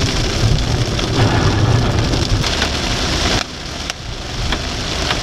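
Heavy rain beating on a moving car, mixed with road and tyre noise, with a few sharp ticks of hits on the body. The noise drops suddenly about three and a half seconds in, then builds again.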